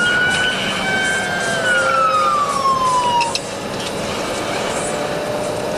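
Police car siren wailing, holding a high pitch and then falling, and cutting off suddenly about halfway through. Under it and after it, steady road and engine noise from a car driving at speed.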